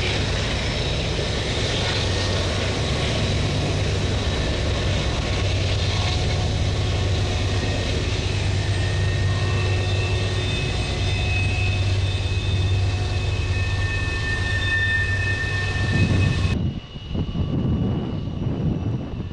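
A steady engine drone with a strong low hum. About three-quarters of the way through, the high hiss cuts off abruptly and the sound turns to an uneven low rumble.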